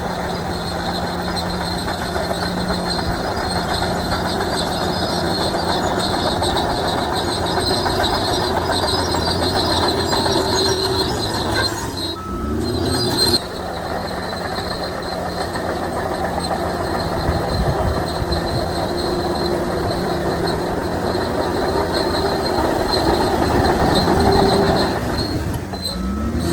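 Shantui DH17C3 crawler bulldozer working: its engine runs under load while the steel tracks squeal and clatter steadily, with a brief break about twelve seconds in.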